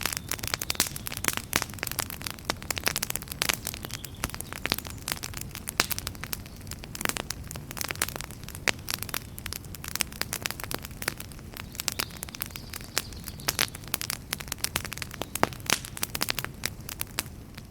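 Wood campfire crackling steadily: dense, irregular snaps and pops over a low, even rumble and hiss of the burning fire.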